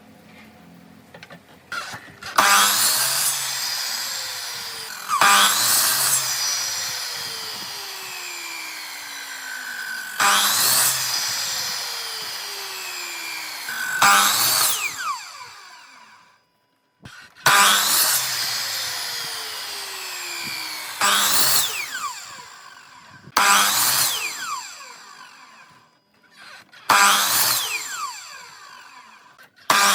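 An electric woodworking power tool run in short repeated bursts, about nine times. Each burst starts suddenly and then fades with a whine that falls in pitch as the motor coasts down after release.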